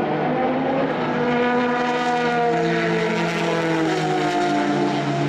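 Race car engines running at speed, several engine notes at once, their pitches sliding slowly up and down as the cars pass.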